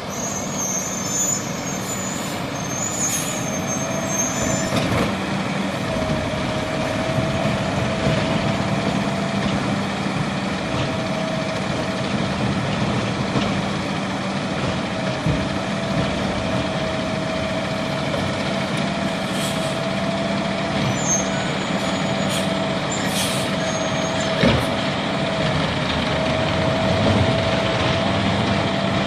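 Garbage truck's diesel engine running steadily, with a wavering whine over it, brief high squeals and hisses near the start and later on, and a few short knocks.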